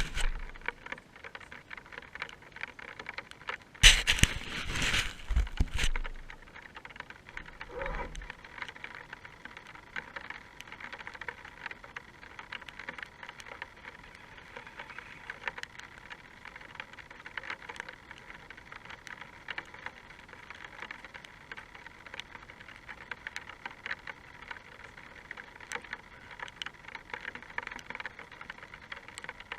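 Rain pattering in many fine, steady ticks. About four seconds in there is a louder, rough scuffing burst lasting about two seconds.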